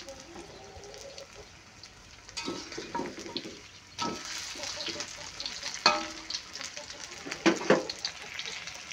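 Vegetable fritter batter sizzling in hot oil in a wok, the sizzle swelling about four seconds in as another spoonful of batter goes into the oil. A few sharp knocks of the metal spatula against the wok.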